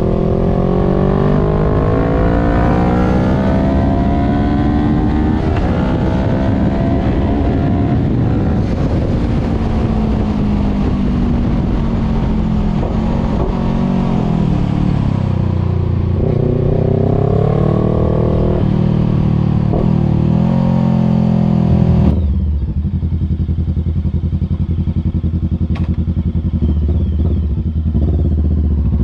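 Voge 500R parallel-twin engine through an open full exhaust with the dB killer removed. It revs up and down through the gears under way, then about two-thirds in it drops to a steady low idle, and the revs rise again at the very end.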